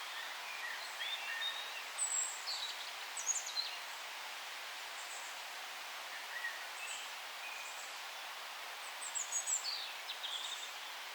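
Forest birds chirping and singing in short, high phrases. They come in two busier bouts, one in the first few seconds and another near the end, over a steady background hiss.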